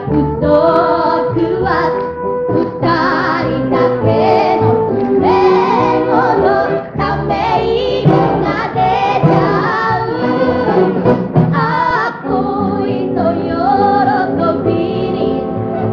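Music: a 1960s pop song, several voices singing together over a band accompaniment.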